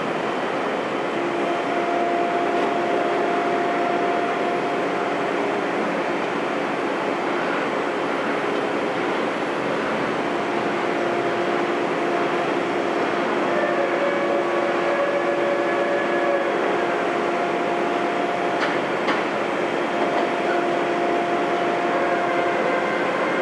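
Heavy machinery running steadily, with whining tones that come and go and change pitch, and a few sharp clicks about two thirds of the way through.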